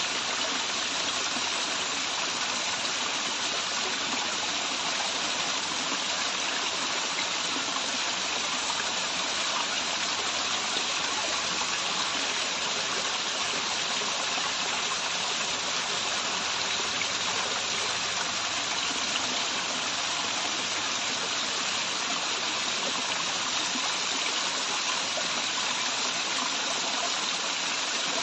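Running water from a waterfall: a steady, unbroken rush of pouring and splashing water.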